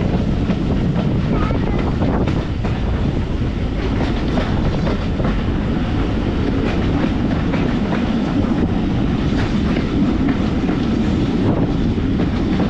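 A train running along the track: a steady rumble with frequent light knocks and clicks.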